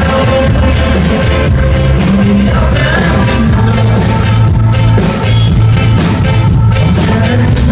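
Live band music with a heavy bass line, a steady drum beat and some singing, loud and distorted as picked up in the crowd.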